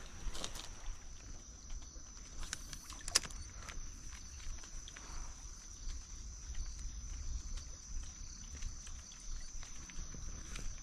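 Quiet creekside outdoor ambience: a steady low rumble under a thin, steady high-pitched whine, with scattered light taps and one sharper click about three seconds in.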